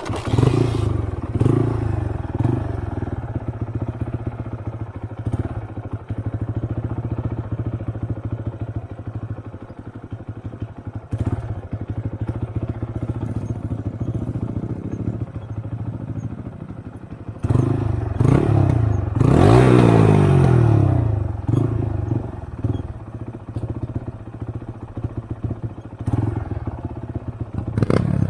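Motorcycle engine running under way, its pitch rising and falling as it revs up and eases off about two-thirds of the way through.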